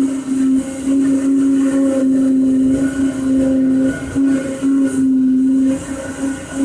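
CNC machine's axis motors whining at one steady pitch through a series of moves, cutting out briefly between them.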